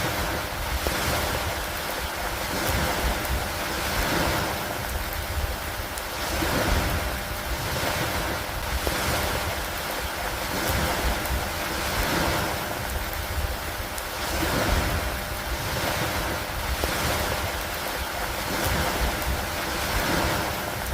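Steady rain on a lake and a wooden dock: a dense hiss that swells and eases about every two seconds, over a steady low rumble.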